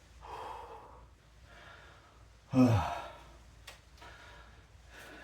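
A man breathing out hard between exercise sets, with one loud voiced sigh that falls in pitch about two and a half seconds in, the sound of someone winded and recovering after a round of interval exercises.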